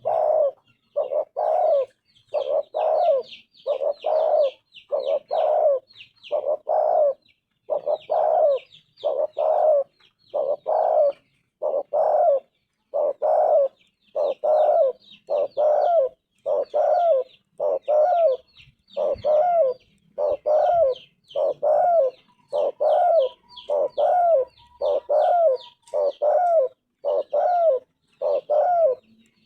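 Spotted dove cooing over and over, short coos repeating at about one a second in a steady rhythm.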